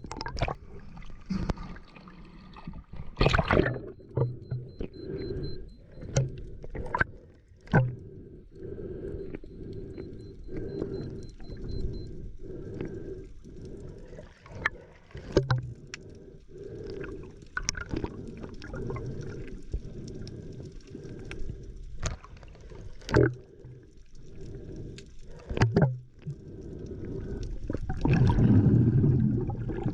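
Muffled sloshing and gurgling of seawater around a camera, with scattered sharp knocks and taps, and a louder swell of water noise near the end.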